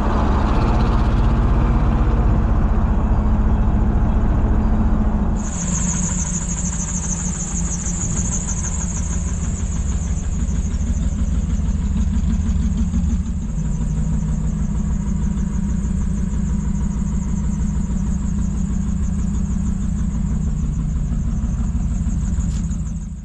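1952 Mercury Monterey's flathead V8 engine running steadily, with a hiss joining in and the sound changing about five seconds in.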